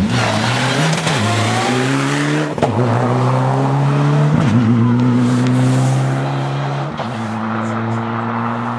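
Rally car engine accelerating hard through the gears, its pitch climbing and dropping at each of about four gear changes, with tyre and gravel noise loudest at the start.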